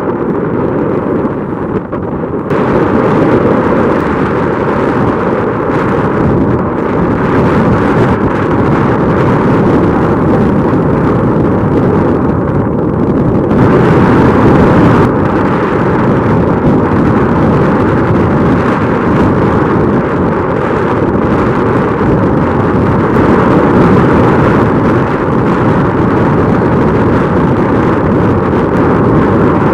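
Strong wind buffeting the microphone: loud, continuous rumbling that steps up about two seconds in, then swells and eases.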